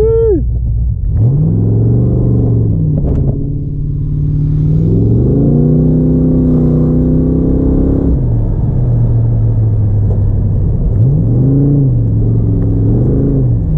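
Car engine under hard driving: it revs up and falls back, climbs and holds a higher pitch for a few seconds, then drops off, with several shorter rises and falls near the end, as in an autocross run.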